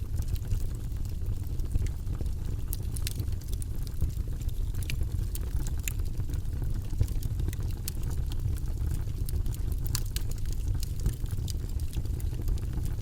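Campfire crackling: frequent sharp, irregular pops and snaps over a steady low rumble.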